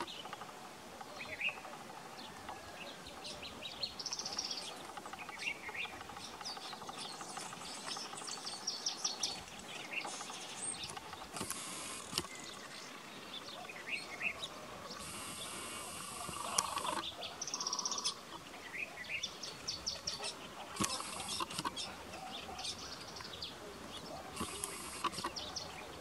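Several wild birds calling and singing: short chirps and quick repeated trills, some high-pitched, overlapping throughout.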